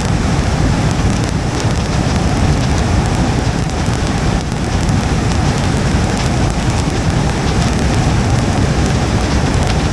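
Rain falling on a moving car, over a steady rumble of tyres on wet road.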